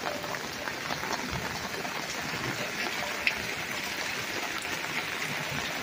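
Steady rain falling through the trees: an even hiss with scattered small drip ticks and one sharper tick about three seconds in.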